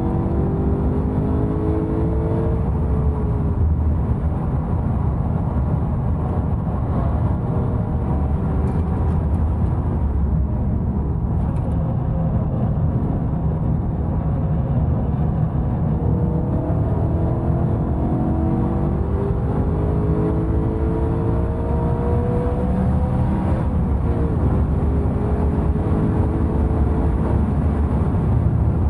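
BMW E92 M3's 4.0-litre V8 running hard on a race track over a steady low rumble. Its pitch climbs under acceleration in the first few seconds, and again in several rising pulls with gear changes from about sixteen seconds in.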